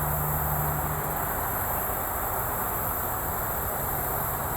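Steady summer outdoor ambience: a continuous high insect drone with a low, even rumble beneath it, fitting distant highway traffic.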